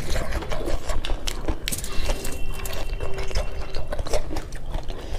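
Two people chewing and smacking mouthfuls of rice and beef curry eaten by hand, close up: a dense, irregular run of wet, clicky mouth sounds.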